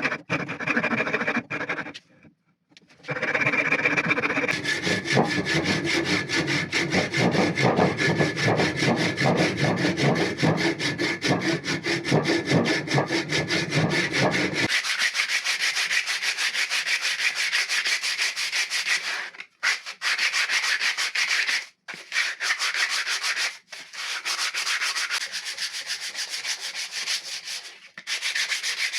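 Rapid, rhythmic rubbing strokes of a hand abrasive tool on a dry acacia wood axe handle. The sound cuts off abruptly several times, and from about halfway the strokes turn thinner and hissier.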